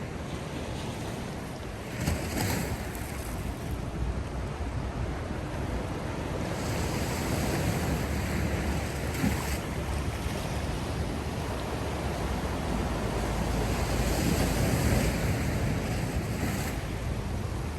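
Sea surf washing onto the shore in a steady rush, swelling three times as waves break, over a low rumble of wind on the microphone.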